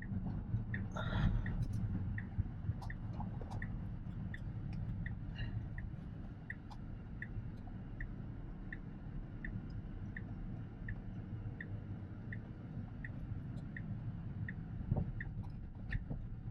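Tesla Model X turn-signal indicator ticking steadily, about one tick every 0.7 seconds, over the low road rumble in the cabin.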